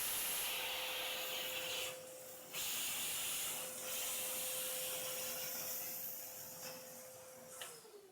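Kärcher WD 3 wet-and-dry vacuum cleaner running under suction: a steady hiss of air rushing through the hose over a steady motor whine, with a brief drop in the airflow about two seconds in. Near the end the motor is switched off and its whine falls in pitch as it winds down.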